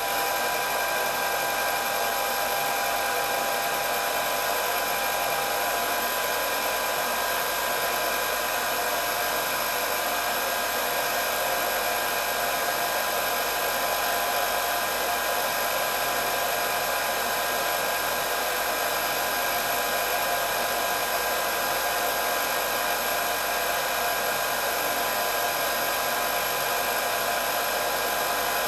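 Electric hair dryer running steadily, its fan blowing air with a constant hiss and a fixed high whine that never changes.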